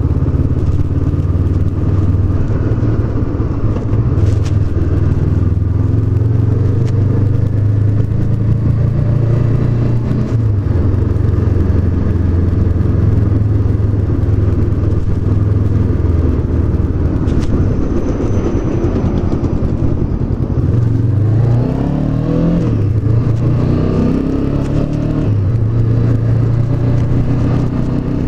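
Honda CB500X's parallel-twin engine running steadily on the move. Near the end its pitch falls and rises several times as the revs change.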